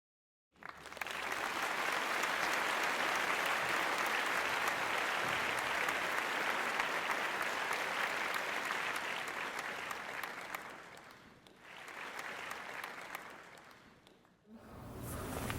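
Crowd applauding, starting abruptly, easing off about ten seconds in, then a shorter second round of clapping that dies away just before the end.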